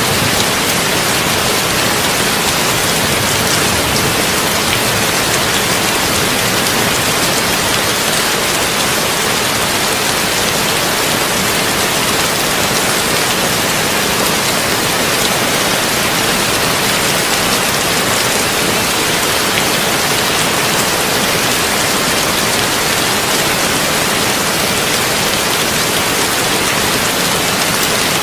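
Heavy rain falling on a tin roof, a steady dense patter without any thunder.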